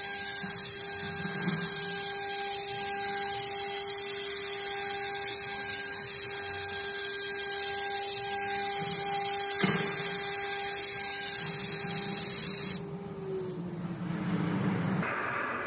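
CNC router spindle running steadily with a high whine and hiss as the machine cuts wood, with one sharp click about ten seconds in. Near the end the sound drops suddenly and the whine falls in pitch as the spindle slows.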